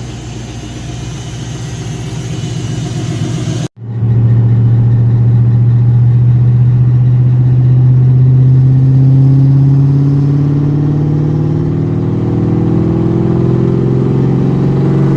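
Ford Terminator supercharged 4.6-litre V8, freshly swapped in, running. An abrupt cut about four seconds in gives way to a louder, steady run whose pitch slowly rises.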